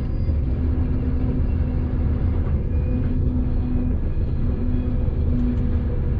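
V/Line regional train running, heard from inside the carriage: a steady low rumble with a hum that fades in and out every second or so.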